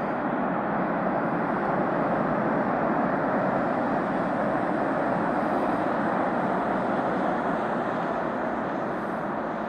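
Boeing 747-400 freighter's jet engines, a steady rushing noise that swells slightly in the first few seconds and eases a little near the end.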